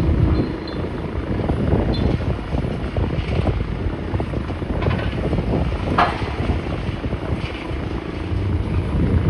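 An engine running steadily, with scattered knocks and clatter and a sharper knock about halfway through.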